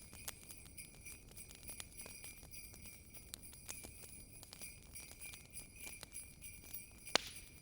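Small jingle bells shimmering steadily over a crackling wood fire, with scattered sharp pops and one louder crack near the end.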